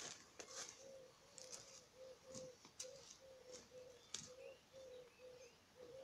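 Faint spring birdsong: short high chirps come every second or so over a steady string of low, hooting notes, about three a second.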